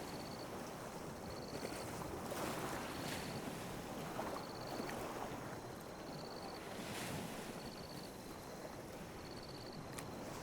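Calm sea waves lapping and washing on a beach, a steady surf wash that swells and eases every second or two. A faint high chirp repeats at an even pace about once a second, and there is a single sharp click near the end.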